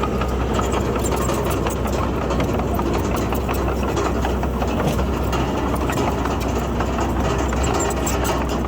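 Heavy diesel engine of a bulldozer running steadily, with a continuous dense clatter over its low drone.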